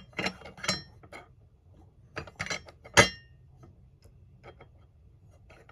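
Small screws and a screwdriver clicking and clinking against the die-cast metal wheel arch of a model kit: clusters of light taps, then one sharp ringing clink about three seconds in.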